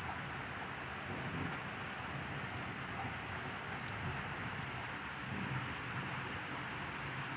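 Steady heavy rain pouring down in a thunderstorm, an even hiss of downpour.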